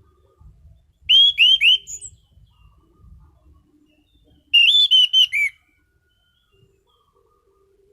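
Anis cendana thrush singing two short phrases, each a quick run of three or four loud, clear whistled notes that arch and fall, the first about a second in and the second about three seconds later.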